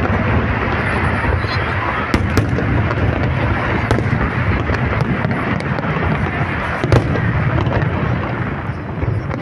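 Aerial fireworks display: a continuous rumble of shells bursting, with sharper single bangs now and then, the loudest about seven seconds in.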